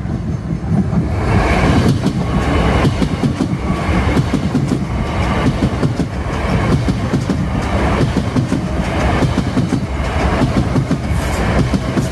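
Southern passenger train passing close by at speed: a steady rumble with a repeated clatter of wheels over the rail joints, swelling about a second in.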